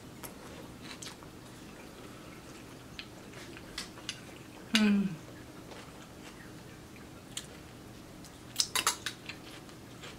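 Close-up eating sounds: soft chewing with small mouth clicks. A short hum of pleasure falls in pitch about halfway through, and a fork clinks and scrapes on a ceramic plate near the end.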